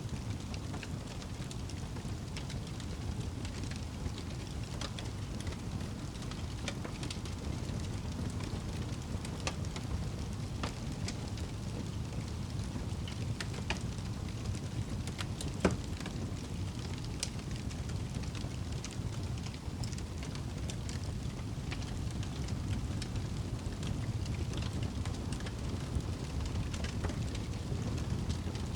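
Wood fire burning in a fireplace: a steady low rumble with scattered crackles and one louder pop a little past halfway through.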